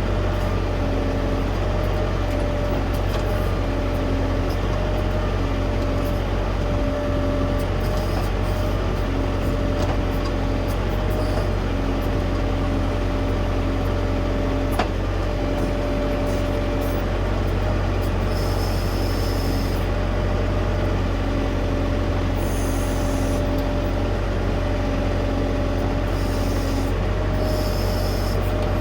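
Tractor diesel engine running at a steady speed while working a backhoe on a stump, with a mid-pitched tone cutting in and out and a few short high squeals about two-thirds of the way through and again near the end.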